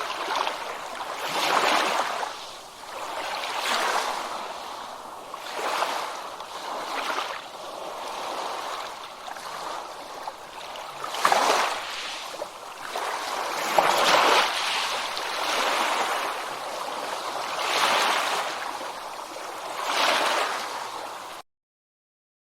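Ocean waves washing in, a hiss of water that swells and fades about every two seconds. The sound cuts off abruptly near the end.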